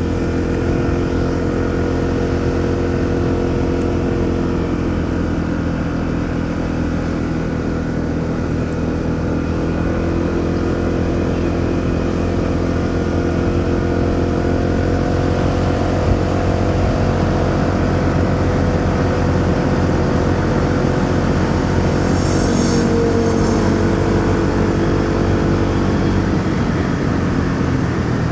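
Motorcycle engine running steadily at road speed, its pitch shifting a little with the throttle, with traffic noise around it. A brief high-pitched sound comes near the end.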